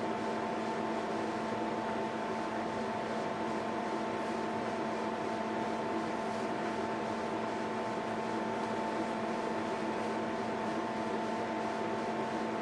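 Steady machine hum with a few held tones over an even hiss, unchanging throughout.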